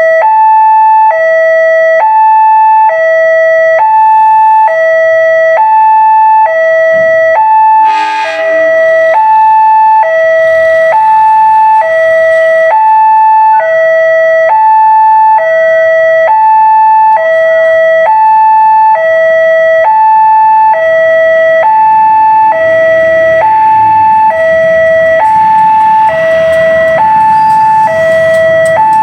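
Railway level-crossing warning alarm sounding, a loud electronic two-tone signal alternating between a low and a higher note about every half second, the crossing's warning that a train is approaching. A rising rumble builds under it in the last several seconds.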